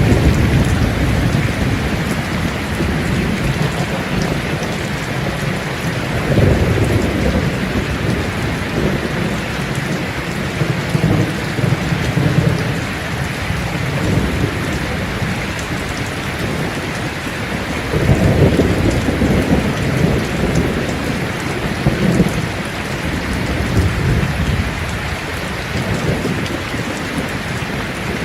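Steady rain falling, with low rolling rumbles of thunder swelling several times, the strongest about eighteen seconds in.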